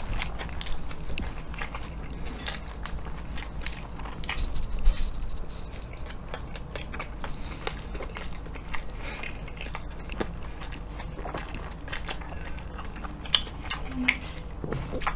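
Close-up chewing of a mouthful of Burger King's Hokkaido salmon mentaiko burger, with many sharp mouth clicks and a few louder ones about five seconds in and near the end.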